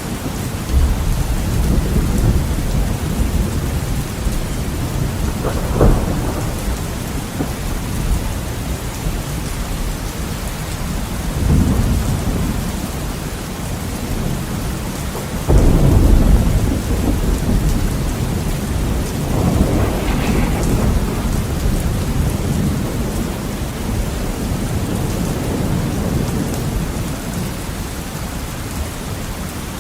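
Heavy rain falling steadily against a window, with repeated rolls of thunder. There is one sharp crack about six seconds in, and the loudest roll starts suddenly about halfway through.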